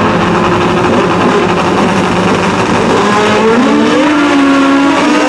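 Pro drag-racing motorcycles running at full throttle on an eighth-mile pass, loud and steady. In the second half the engine pitch climbs, levels off and climbs again as the bikes shift up through the gears.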